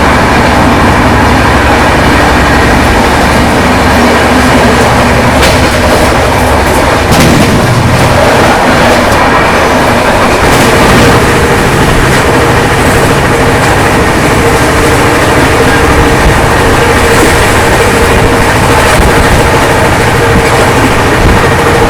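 Passenger express train running at speed: a continuous loud rumble and rattle of the coaches on the track. A faint steady tone joins about halfway through.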